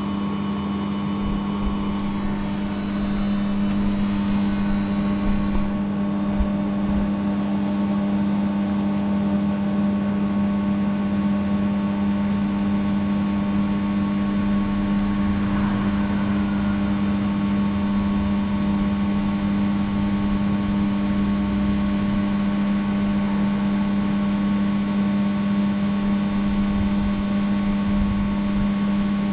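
Steady machine hum with a strong low tone, holding level and unbroken, with a few faint higher steady tones above it.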